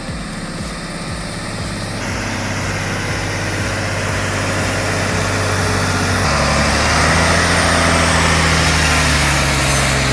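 Heavy truck's diesel engine running under load, growing louder, with its note changing about six seconds in.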